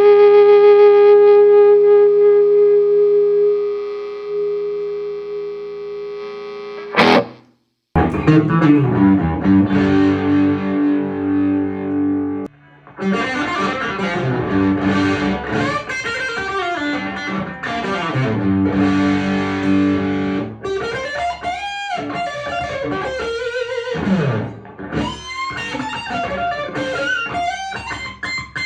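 1997 Epiphone Les Paul Custom electric guitar played through a lightly distorted amp: a long held note with vibrato fades away, a sharp click and a moment of silence about seven seconds in, then chords and fast lead runs with descending lines.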